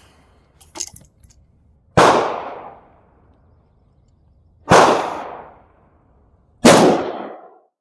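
Gunshots on a firing range: three loud reports about two and then two seconds apart, each a sharp crack with a tail that dies away over most of a second. Faint clicks come about a second in. The shots come too quickly to be from one single-shot carbine, so they are other shooters' guns.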